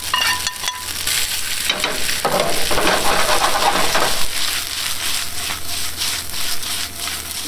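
Shrimp and scallops sizzling in a pan of garlic, tomato and spinach sauce as they are stirred back in, with scattered clicks of the utensil against the pan.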